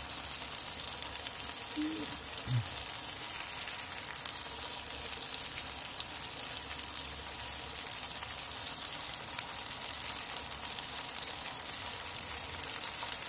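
Tofu blocks frying in shallow oil in a nonstick pan: a steady sizzle with fine crackling.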